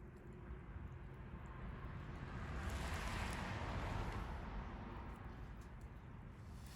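Wood campfire burning with a few faint crackles, while a rushing noise swells to a peak midway and fades away again.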